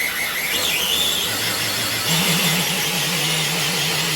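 A radio-controlled truck's electric motor and gears whining under load as it pulls a weighted sled. A wavering low hum joins about halfway through.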